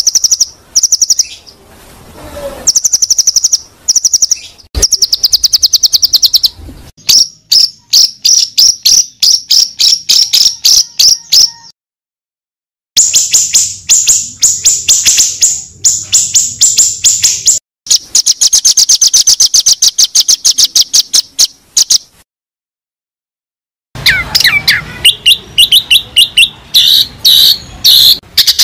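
Recorded songbird song played as a training track for white-rumped shamas: long fast trills of high repeated chirping notes, cut off abruptly twice by dead-silent gaps of a second or two.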